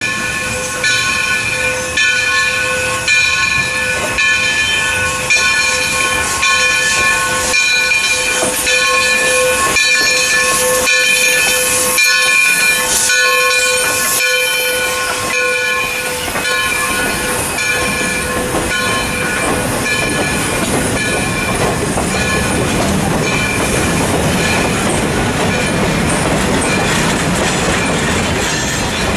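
Bell on a passing steam locomotive ringing about once a second, fading out about halfway through. Freight cars then roll past with a rising rumble and clickety-clack of wheels over the rail joints.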